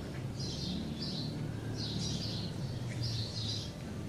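Small birds chirping: short high chirps in little runs, coming about once a second, over a low steady hum.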